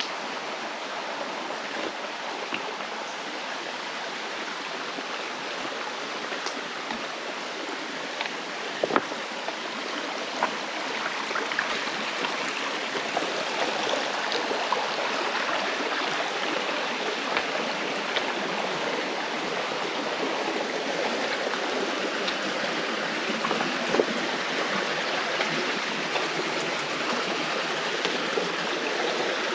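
Mountain stream rushing over rocks in a gorge: a steady, dense splashing rush that grows a little louder about a third of the way in, with a few short sharp clicks.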